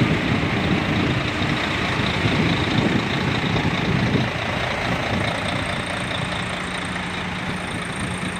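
Mercedes-Benz Actros truck's diesel engine running at idle. It has a rough, heavier rumble for about the first four seconds, then settles slightly quieter and steadier with an even hum.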